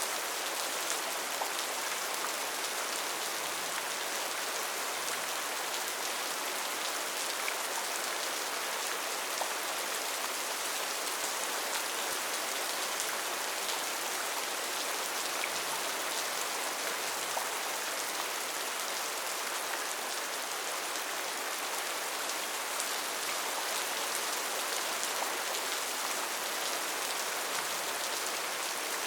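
Steady rain falling on rainforest foliage, a dense even hiss of many small drop ticks.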